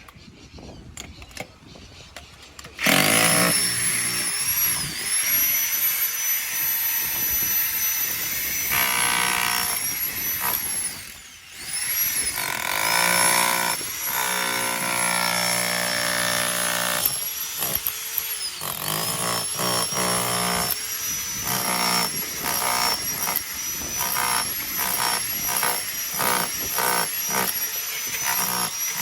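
Jackhammer starting up about three seconds in and running steadily, with a high motor whine over the hammering. It drops off briefly near the middle, then runs on.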